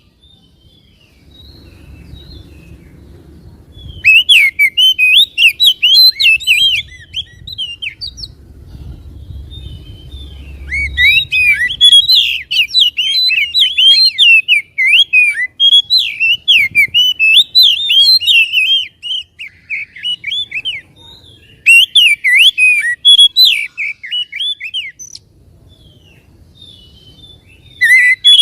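Oriental magpie-robin (kacer) singing in bursts of rapid, varied, high whistled notes, several seconds each, separated by pauses. A faint low rumble sits under the pauses.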